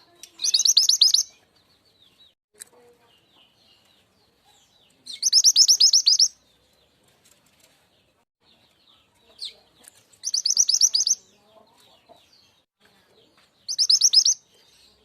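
Mantenan gunung (truntung weru) song played as a bird-lure call: four short bursts of rapid, high, repeated notes, each under a second and about four seconds apart. Faint chirps of other birds come between the bursts.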